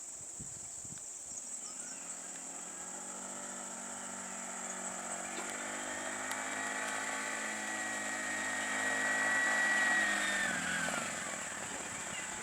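A motor vehicle's engine drawing closer and growing louder, then dropping in pitch and fading as it goes by.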